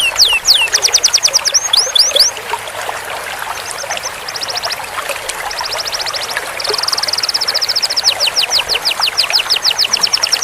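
Canary singing a continuous song of trilled phrases, each a fast run of repeated downward-sweeping notes. A very rapid buzzy trill (a roll) comes in the middle, between slower runs of sweeps, over a faint steady hiss.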